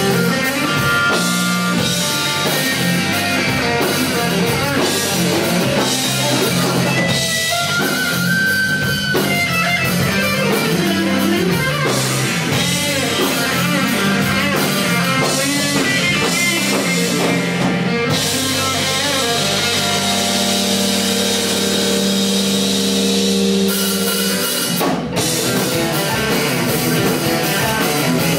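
Live rock band playing an instrumental passage: electric guitar lines over a drum kit, with a brief break about three seconds before the end.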